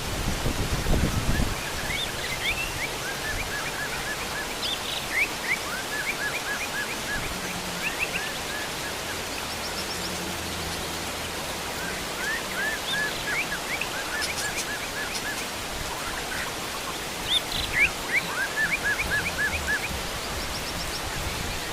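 Heavy rain falling on bamboo and a fish pond, a steady hiss, with wild birds calling over it in quick runs of repeated chirps and short rising whistles. A brief low rumble sounds in the first second or so.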